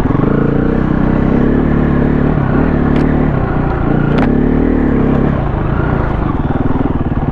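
KTM 350 four-stroke single-cylinder dirt bike engine running on the trail, the revs rising and falling with the throttle. Two sharp clicks come about three and four seconds in.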